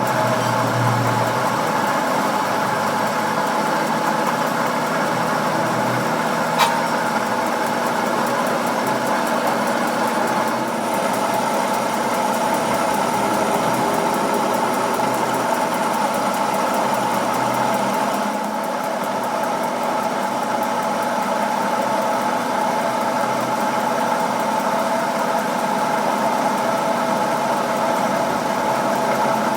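A motor running steadily with a continuous even drone, and a single sharp click about six and a half seconds in.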